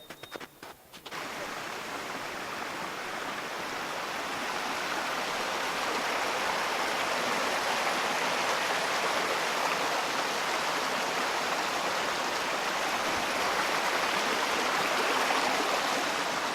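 Running water of a stream, a steady rushing that grows slowly louder over the first few seconds and eases off near the end, after a few light clicks in the first second.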